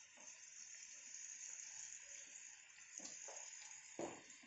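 Faint, steady sizzle of sliced onions, green chillies and curry leaves frying in coconut oil in a kadai.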